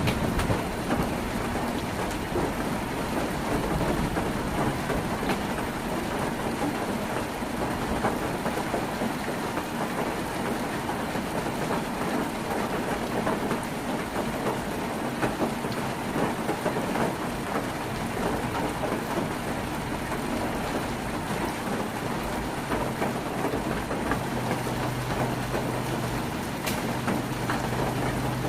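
Heavy rain falling on a tin roof: a dense, steady patter of drops on the metal. Near the end a low steady hum joins in underneath.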